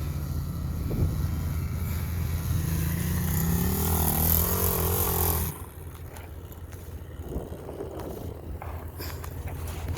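SSR 110 pit bike's small four-stroke single-cylinder engine running, its revs rising a few seconds in. About five and a half seconds in the sound drops away suddenly, leaving the engine fainter.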